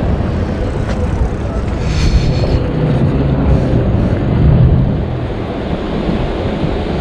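Wind buffeting the microphone of a camera on a moving e-bike, a steady low rumble mixed with passing street traffic. A brief high-pitched squeal about two seconds in.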